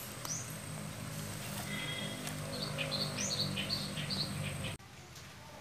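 Outdoor ambience with a small bird chirping a quick run of short high notes about halfway through, over a steady low hum. All of it drops away suddenly shortly before the end.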